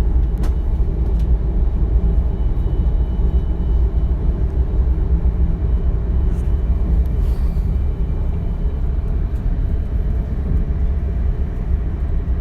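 A DB Class 425 electric multiple unit running along the line, heard from inside the passenger car: a steady low rumble from the wheels and running gear, with faint high steady tones above it.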